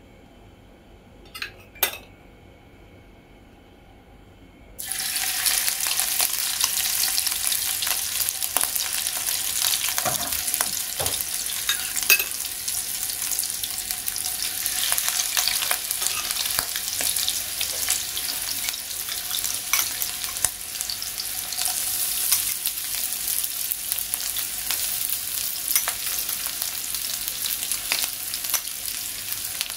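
Chicken pieces frying in hot cooking oil in a non-stick pan. Quiet at first, then the sizzling starts suddenly about five seconds in as the food goes into the oil, and runs on strongly with scattered clicks as it is stirred.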